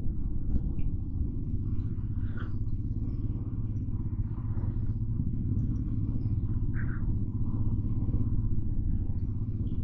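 Steady low rumble of a motorcycle on the move, with a faint short higher sound about seven seconds in.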